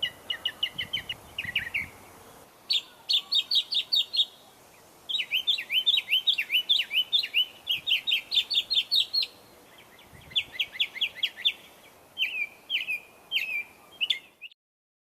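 A songbird singing: several phrases of quick, repeated sharp chirps with short pauses between them. The song cuts off suddenly near the end.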